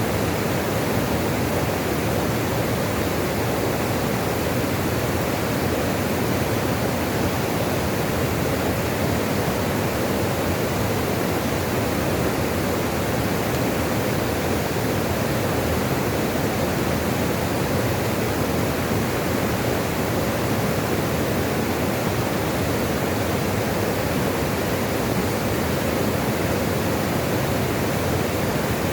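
Running water, a steady, even rushing that never changes.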